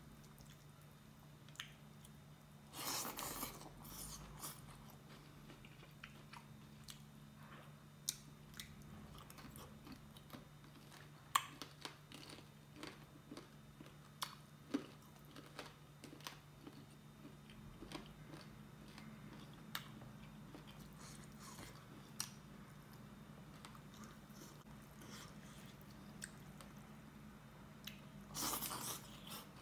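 Close-miked eating sounds of a man chewing dhido and chicken curry eaten by hand: scattered small clicks and crunches, with two louder bites, one about three seconds in and one near the end. A steady low hum runs underneath.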